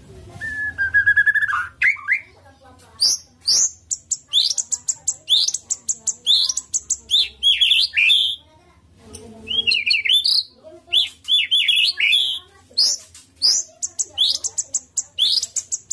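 White-rumped shama (murai batu) singing a loud, varied song. A held whistled note near the start gives way to quick runs of sharp repeated high notes and sweeping phrases, with short pauses between them.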